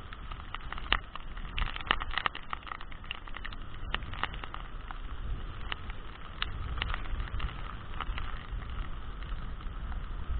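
Strong wind rumbling on the microphone in heavy rain, with irregular sharp taps throughout.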